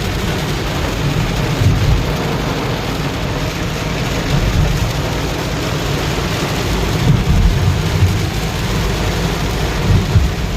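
Heavy rain falling steadily, with a deep rumble underneath it.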